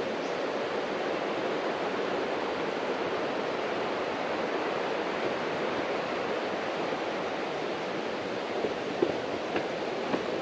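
The Cascade River rushing: a steady, even flow of water noise, with a few faint clicks near the end.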